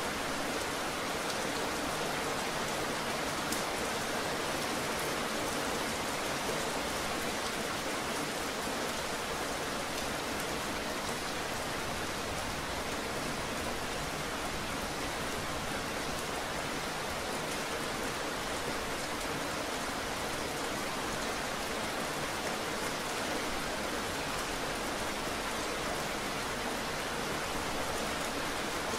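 Steady rain: an even hiss of many drops falling, with no change in strength.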